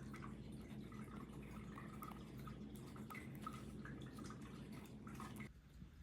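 Faint room tone: a low steady hum with scattered small ticks and drip-like clicks, cutting off abruptly about five and a half seconds in.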